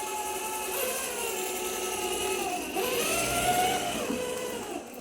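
Small electric motor and gears whirring, with pitch that wanders up and down as the speed changes; the sound cuts off just after the end.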